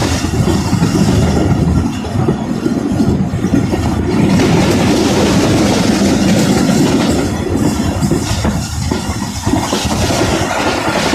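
Moving passenger train: a loud, steady rumble of carriage wheels on the rails with clickety-clack.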